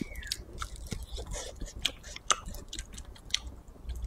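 Close-miked chewing of a chewy piece of spicy maocai, with irregular sharp wet clicks a few times a second.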